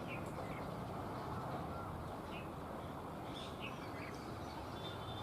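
Birds chirping: short, scattered chirps over a steady background noise.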